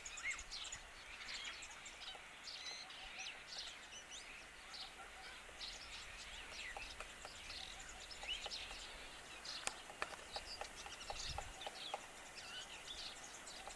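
Birds chirping in many short, high calls throughout, with a few sharp taps about ten seconds in, typical of a woodpecker pecking at wood.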